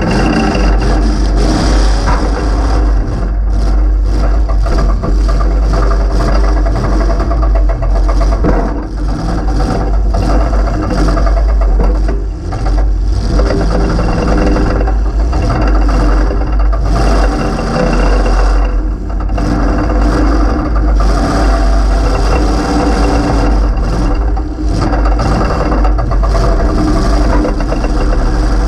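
A demolition derby car's 355 V8 running loud through open headers that exit straight up through the hood. The engine revs up and falls back, with a few brief dips in loudness.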